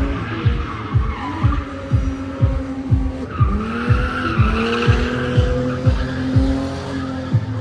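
Drift car engine revving with tyres screeching, the squeal loudest about halfway through, under music with a heavy, steady beat about twice a second.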